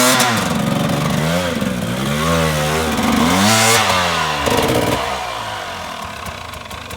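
Husqvarna 300 two-stroke dirt bike engine revving up and down repeatedly under load on a steep hill climb, then fading away after about four and a half seconds.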